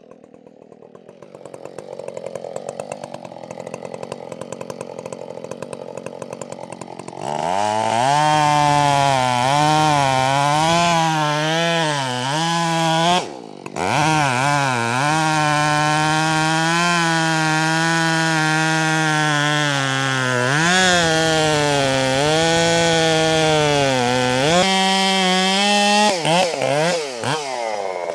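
Husqvarna 572XP two-stroke chainsaw idling, then opened up to full throttle about seven seconds in and cutting through a pecan limb. The engine note wavers as the chain loads and unloads in the wood, with a brief drop in revs about halfway through.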